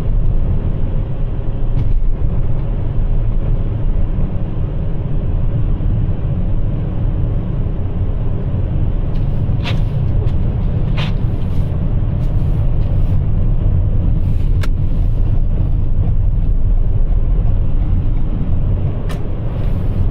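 Steady low rumble of a Toyota RAV4 Prime driving on Blizzak snow tires over a snow-covered road, heard from inside the cabin. A few short sharp clicks sound in the second half.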